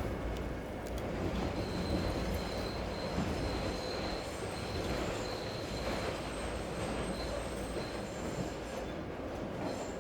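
Train running on rails, a steady low rumble with a thin high wheel squeal that comes and goes in the first half.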